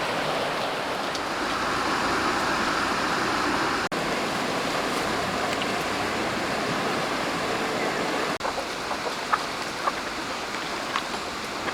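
Steady rush of running stream water, cut short twice for an instant, with a few light ticks in the second half.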